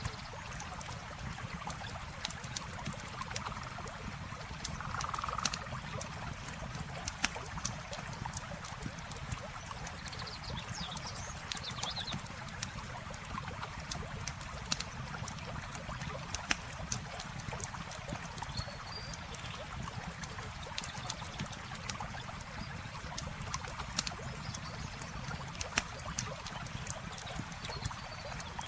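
Campfire crackling with frequent sharp pops and snaps over the steady rush of flowing river water.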